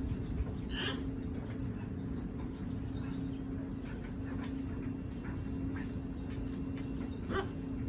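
Parrots eating: scattered small clicks of beaks working food, with a short call about a second in and another near the end, over a steady low hum.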